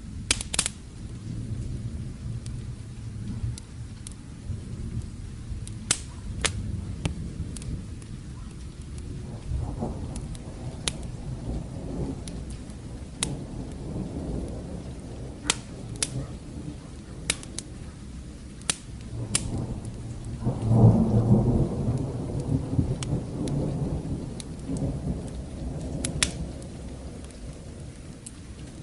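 Rain with a crackling fire's sharp pops scattered throughout, and distant thunder rumbling in twice, the second and louder roll about two-thirds of the way through.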